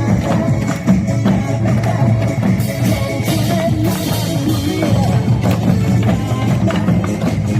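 Live band music with a drum kit keeping a steady beat.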